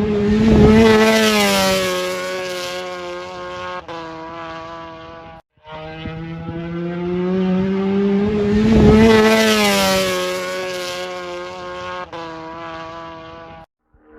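MotoGP racing motorcycle going past at speed, twice. Each time the engine note swells to a loud peak and its pitch drops as it passes, then it fades away.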